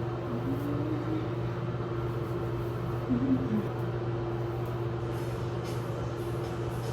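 Steady hum of a room air-conditioning vent, with two short faint sounds near the start and about three seconds in.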